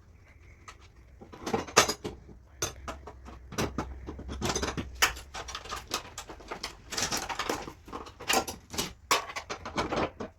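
Irregular light metallic knocks and clatter from body-repair tools working on a car panel, a few a second with uneven spacing.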